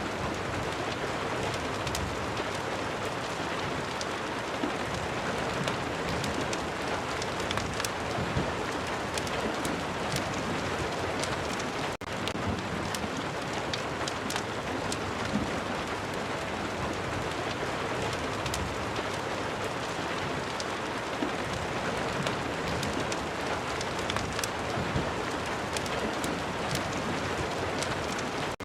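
Steady rain, an even hiss with many small sharp ticks scattered through it. It drops out for an instant about twelve seconds in.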